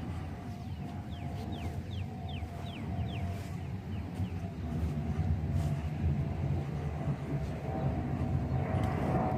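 Steady low outdoor rumble with a faint steady hum underneath. A little over a second in, a bird gives a quick run of about six short chirps, each falling in pitch.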